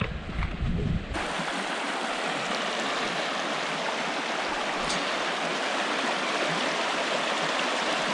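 Wind rumbling on the microphone for about the first second, then, after a sudden change, the steady rush of the Pecos River flowing.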